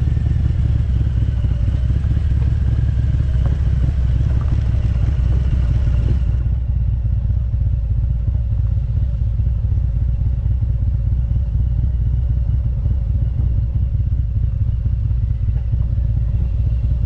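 Harley-Davidson Road Glide's V-twin engine running steadily under way, with a deep, constant low drone. A higher hiss over it drops away about six seconds in.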